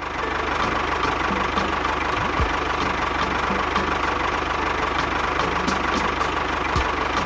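A small engine running steadily, with a rapid even low pulsing and a constant whine.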